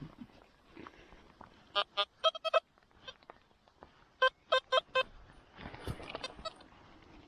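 XP Deus metal detector giving short, clean target beeps: two bursts of about four beeps each, the second burst lower in pitch, as the coil is swept back and forth over a buried metal target.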